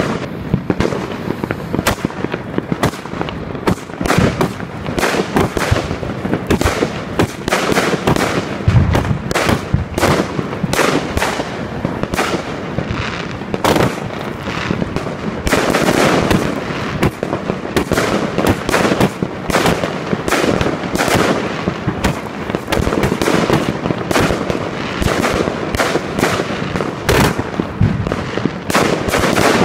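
A 144-shot 25 mm fireworks cake firing in quick succession: launch thumps and shell bursts come several times a second, without a break.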